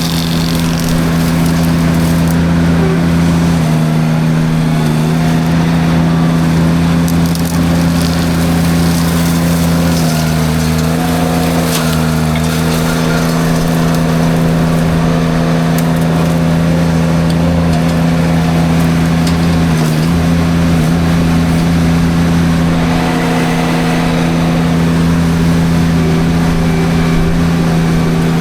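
Derette V1000 mini skid steer running hard with its forestry drum mulcher chewing through light brush, a steady loud engine note over a crunching, grinding haze. The engine pitch sags briefly a few times as the mulcher drum takes on load.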